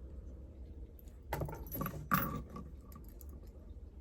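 Metal bracelet chain links jingling and clinking as they are handled, in two brief clusters about a second and two seconds in.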